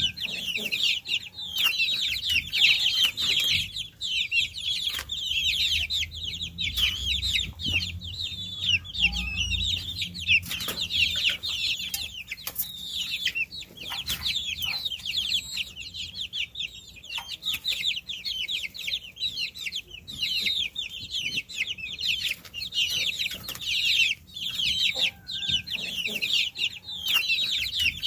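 A brood of baby chicks peeping nonstop, many short high chirps overlapping one another. A faint low rumble runs under them for a few seconds about a third of the way in.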